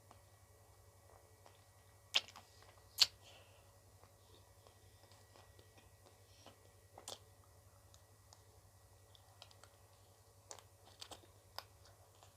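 Crisp bites and crunches of someone eating ice cream, a few separate sharp crunches with the two loudest about 2 and 3 seconds in and a quick cluster near the end.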